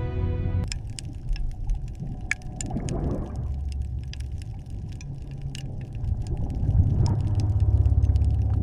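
A low mechanical rumble with scattered sharp clicks over it. Near the end the rumble grows louder and turns into a fast pulsing throb.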